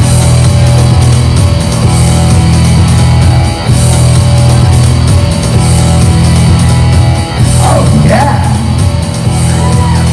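Loud rock music with heavy guitars, with a voice gliding in pitch near the end.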